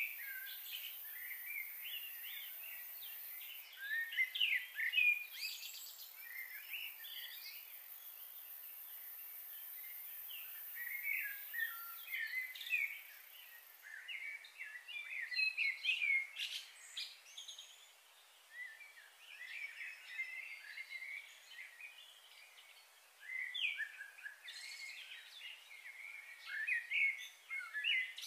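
Small birds chirping and twittering in scattered bursts, over a steady background hiss that is high-pitched through the first half.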